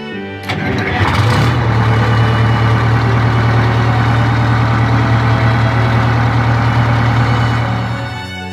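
Car engine sound effect: a click, the engine catching, then a steady idle that stops shortly before the end.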